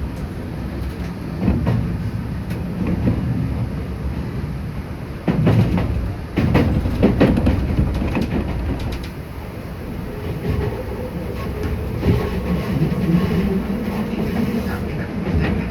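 Enshu Railway electric train running, heard from inside the carriage: a steady low rumble with clusters of wheel clicks over rail joints a few seconds in, and a faint motor hum later on.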